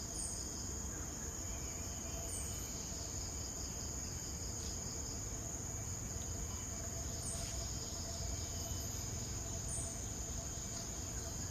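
Steady, high-pitched insect chorus of crickets or similar insects, with a short high falling note repeating about every two to three seconds above it.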